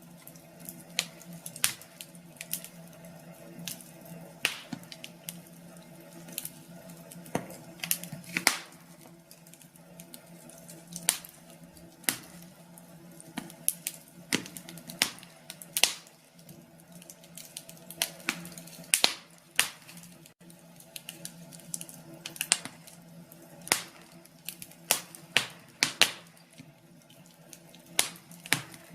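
Wood fire crackling, with irregular sharp pops and snaps from the burning logs over a faint steady low hum.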